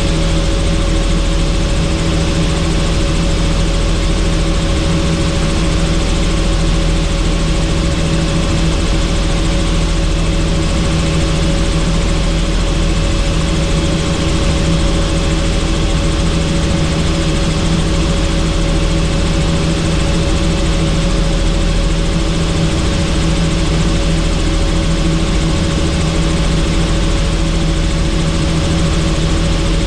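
Helicopter in flight: a steady, loud rotor and engine noise with a constant hum of several pitches, unchanging throughout.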